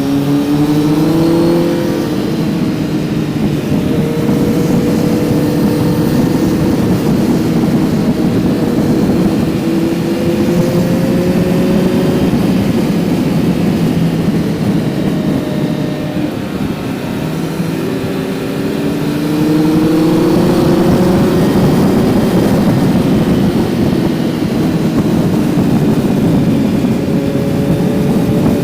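Kawasaki Z900's inline-four engine pulling under way on the road, its pitch climbing slowly in long stretches as the bike gathers speed. It eases off briefly past the middle, then climbs again.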